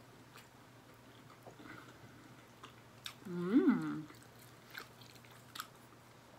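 Quiet close-up eating sounds: small wet chewing clicks from a mouthful of sesame chicken and lo mein, and a plastic fork working noodles in a foam takeout container. About three seconds in, a short wordless voice sound rises and falls in pitch and is the loudest thing heard.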